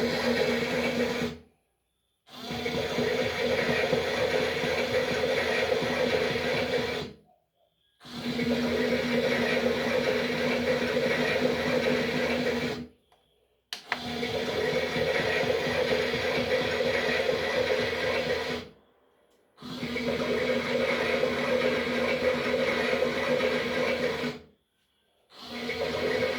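Toy washing machine's small electric motor running with a steady hum, cutting out abruptly for under a second about every five and a half seconds, five times in all.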